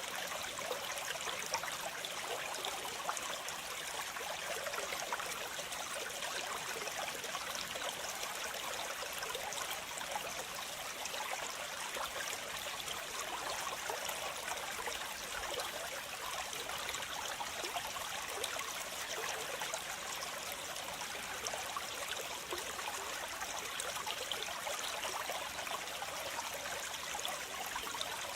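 Waterfall: water falling and splashing in a steady, unbroken rush, mostly a bright hiss with little deep rumble.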